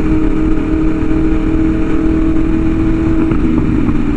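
Sport-bike inline-four engines with aftermarket exhausts cruising at a steady speed, their note holding level with a slight dip in pitch about three seconds in. The sound is a smooth, singing exhaust note.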